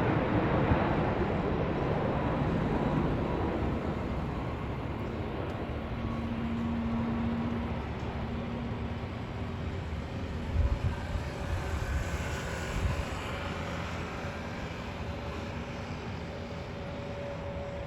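Jet airliner engine noise, a steady rumble slowly dying away as the aircraft moves off. A few low thumps come about two thirds of the way through.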